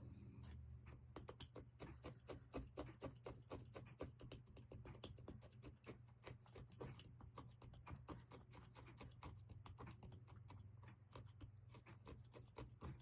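Felting needle jabbed rapidly up and down through wool roving into a foam block: a fast, faint run of soft ticks, about four or five a second, starting about a second in, over a low steady hum.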